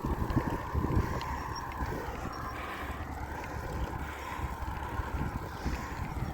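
Strong wind buffeting the microphone while cycling: an uneven low rumble over a steady higher hum.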